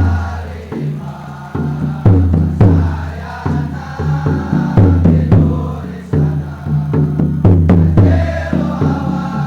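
Male student choir singing with a steady low accompaniment and accented drum beats.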